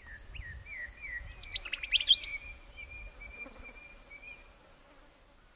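Wild bird calling: a series of short rising chirps, then a quick run of sharp, higher notes about a second and a half in, followed by a thin, steady twittering that fades away.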